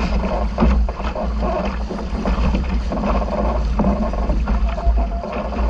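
Wind rumbling on the microphone aboard a sailboat under way, with a steady rush of water and boat noise.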